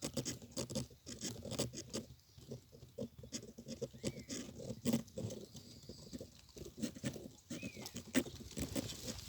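Small birds at a water pool: an irregular patter of soft taps and clicks, with two short chirps, about four and seven and a half seconds in.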